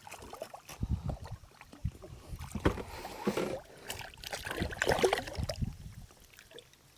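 Irregular knocks and rustling on a small fishing boat, with no steady motor sound.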